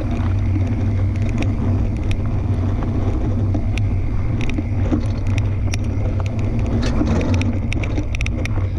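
Fat-tire tandem mountain bike rolling over a dirt trail: a steady low rumble of tyres, with frequent sharp clicks and rattles as it goes over stones.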